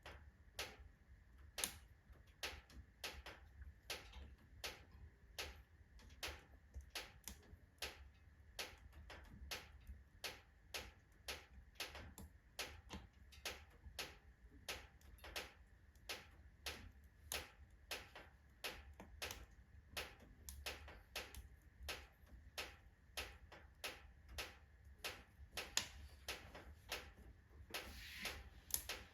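Oak logs burning in a fireplace: faint, sharp crackles and pops, about two or three a second and varying in strength, over a low steady rumble.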